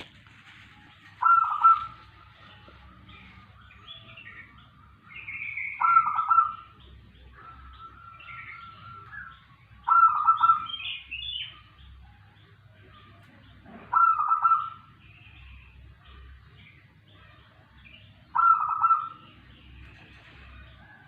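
Perkutut (zebra dove) cooing its song in five short phrases about four seconds apart, with fainter chirps from other small birds in between.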